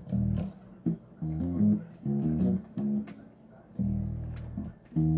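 Bass guitar played solo, a series of plucked notes and short runs that ring and die away, with finger and string clicks between them.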